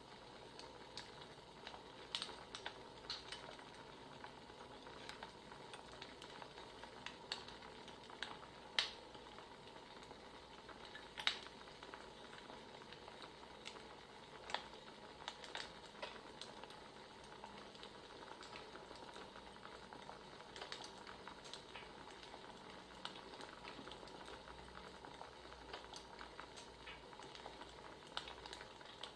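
Wood fire crackling: a faint steady hiss with irregular sharp pops and snaps every second or so.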